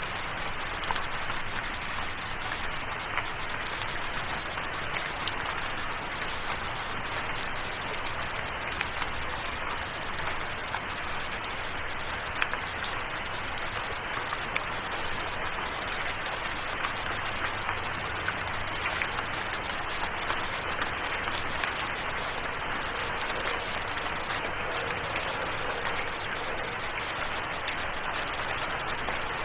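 Steady rainfall with the sharp ticks of individual drops landing on a surface, an even hiss with no let-up.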